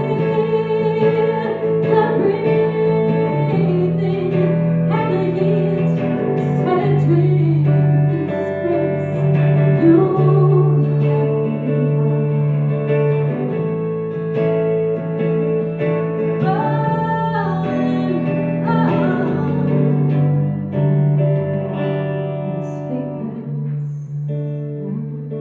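Live band music in a passage with no words: guitars over steady bass notes, getting quieter near the end.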